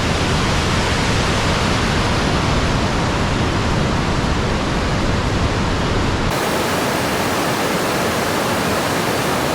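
Waterfall rushing, a loud, steady roar of falling water. About six seconds in, the deep rumble drops away and the rush turns hissier.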